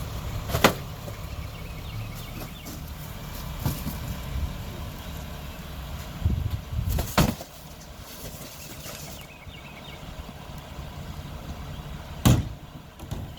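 Diesel engine of a Mack LR rear-loader garbage truck running steadily, with three loud sharp bangs and a few smaller knocks.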